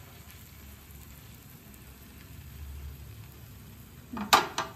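Thalipeeth frying in oil on an iron tawa, a faint steady sizzle as the oil poured into its holes cooks it. A couple of short, sharp sounds about four seconds in are the loudest thing heard.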